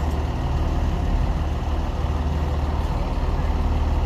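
A large vehicle engine running steadily at idle, a low pulsing drone with no change in speed.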